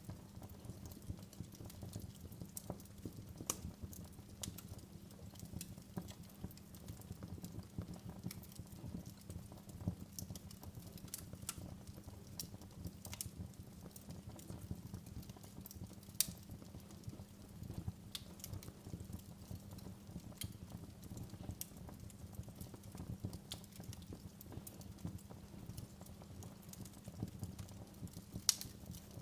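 Wood fire burning in a fireplace: frequent, irregular sharp crackles and pops over a steady low rumble, with a louder snap near the end.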